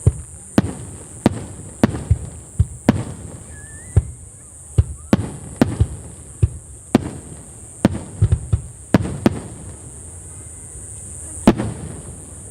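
Fireworks shells bursting in a rapid series of sharp bangs, each with an echoing tail, about two a second; they stop about nine seconds in, with one last bang near the end.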